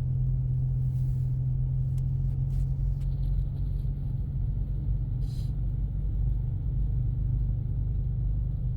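Steady low cabin rumble of a 2024 Ford Mustang EcoBoost with its 2.3-litre turbo four-cylinder under light throttle, and its all-season tyres rolling through deep snow. A few faint light ticks come through over it.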